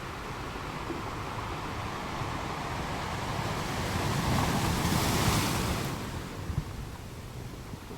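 Ocean surf: a wave builds into a loud rushing wash about four to six seconds in, then falls away quickly to a quieter steady surf background.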